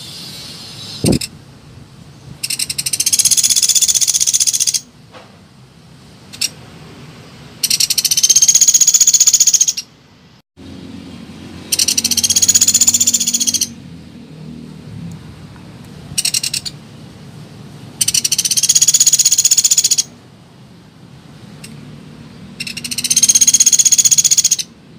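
Pelatuk beras woodpecker calls from a lure recording: a series of five high, rapid rattling trills, each about two seconds long and a couple of seconds apart, with two short single bursts between them.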